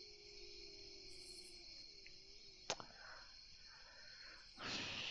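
Faint, steady chorus of crickets as a night-sounds background. A single sharp click about two and a half seconds in, and a louder rushing noise starting near the end.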